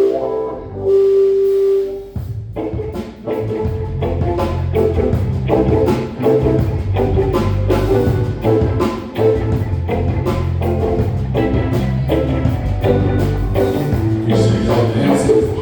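Live band playing an original instrumental tune with guitar, bass and drum kit in a steady rhythm; a held note ends about two seconds in, before the full groove comes in.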